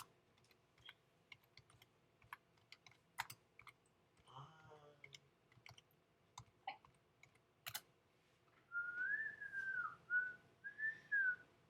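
Scattered computer keyboard keystrokes, then a person whistling a short wavering tune for about two and a half seconds near the end.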